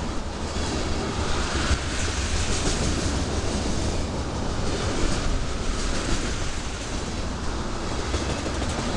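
Freight train of ethanol tank cars rolling past close by at a speed-restricted pace: a steady rumble of steel wheels on the rails, with the clickety-clack of wheels over the rail joints.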